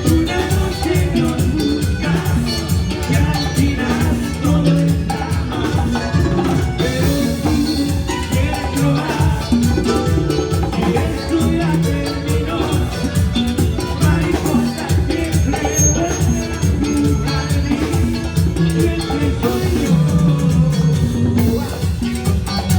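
Band playing Latin dance music with a steady beat and drums.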